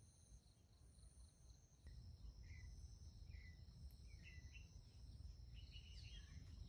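Faint, steady trilling of crickets or other insects, with a few short bird chirps starting about two seconds in.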